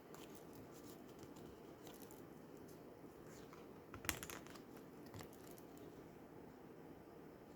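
Faint light clicks and rustles of oracle cards being handled and turned over one by one, with a sharper cluster of taps about four seconds in.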